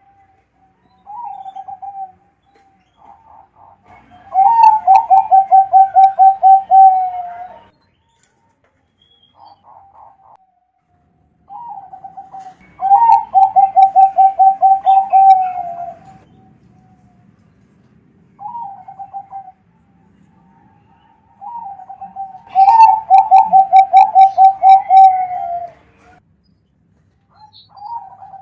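Zebra dove (perkutut) cooing: three song bouts, each a short opening note followed by a fast run of about a dozen rolling coos, with shorter calls in between.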